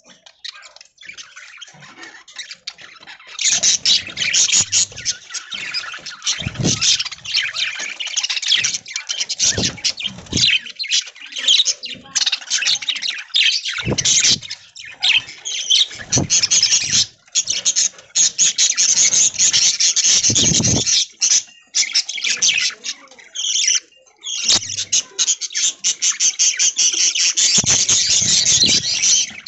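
A flock of budgerigars chattering and chirping in a dense, continuous warble, getting louder about three seconds in, with a few low thuds here and there.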